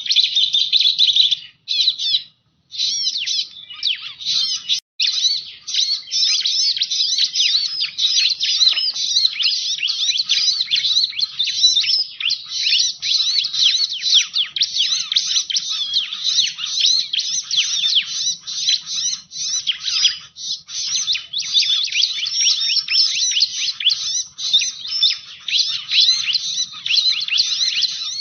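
Ciblek (bar-winged prinia) calling in a fast, continuous stream of high chirps, with a short break about two seconds in: a lure call used to draw in wild ciblek.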